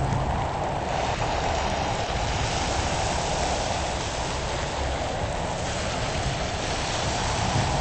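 Heavy rain falling steadily: a constant rushing hiss with a low rumble underneath.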